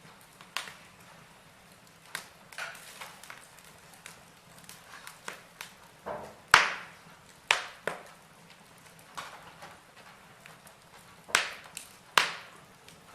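Wood fire of burning logs in a fireplace crackling, with irregular sharp pops, a few much louder ones about six and a half seconds in and near the end, over a faint steady hiss.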